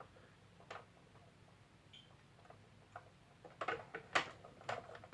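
Light plastic clicks and taps from a hand-held plastic scale-model helicopter being handled: one click about a second in, then a quick cluster of clicks near the end.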